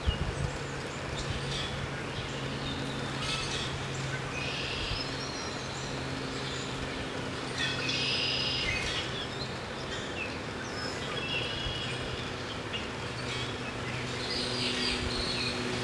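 Wild birds singing and chirping in short repeated phrases over a steady low hum.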